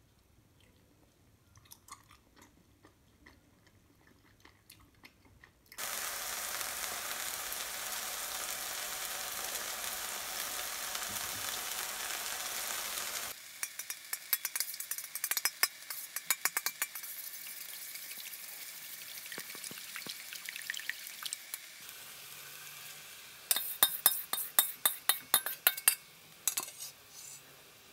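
Cooking sounds for egg fried rice. About six seconds in, a steady sizzle of oil frying chopped green onions in a pan starts, and it cuts off suddenly after several seconds. Then come sharp clicks of a utensil against a stainless steel bowl as eggs are beaten, loudest and fastest near the end.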